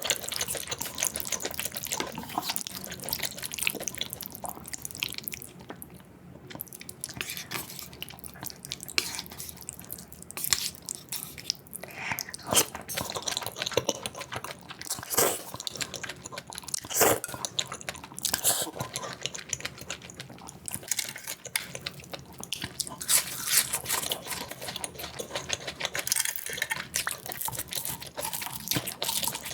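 Close-miked mukbang eating sounds, sped up: rapid wet chewing and smacking mixed with sharper bites and crunches, a dense run of small clicks and pops.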